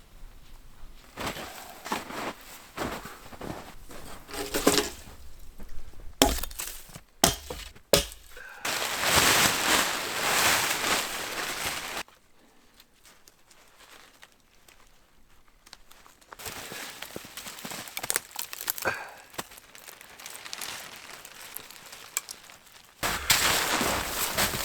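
A string of crunching, cracking and knocking sounds, broken up by several abrupt cuts. A noisier, steadier stretch runs for about three seconds in the middle.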